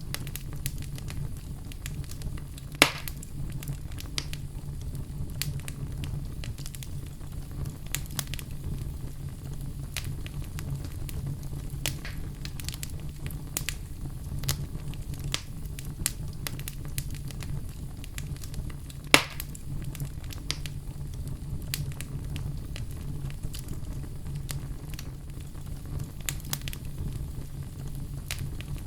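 Wood fire in a fireplace crackling steadily, with a constant low rumble under many small ticks. Two sharp, louder pops come about three seconds in and again near nineteen seconds.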